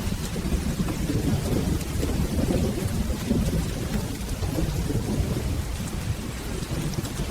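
Rain falling with a continuous low rumble of rolling thunder underneath, at an even level, with faint scattered ticks on top.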